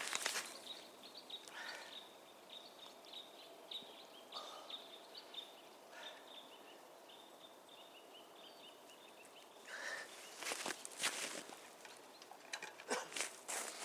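A small bird calling outdoors with a run of quick, high chirps over the first half, then a few footsteps near the end.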